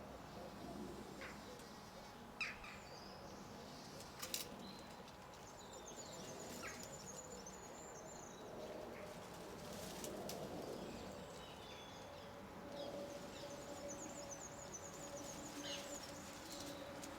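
Small garden birds chirping and twittering in high, thin calls, with two sharp taps about two and a half and four and a half seconds in.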